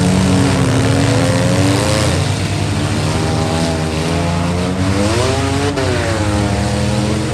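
Several demolition derby minivans, trucks and SUVs with their engines running and revving at once, the engine pitches rising and falling over one another.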